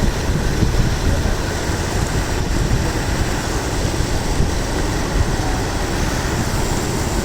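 Steady rain noise with a heavy low rumble underneath.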